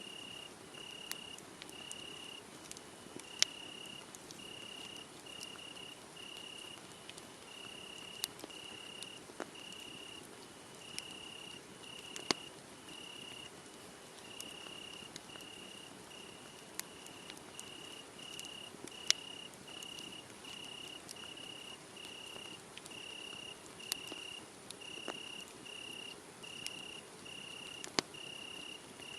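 Crickets chirping in a steady, even series of high-pitched trills, about two a second, while a wood fire crackles, with several sharp, loud pops scattered through.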